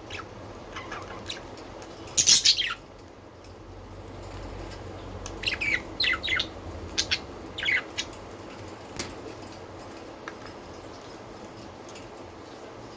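Pet budgerigars calling: one loud, harsh call a couple of seconds in, then a run of short, sharp chirps in the middle and a single chirp a little later.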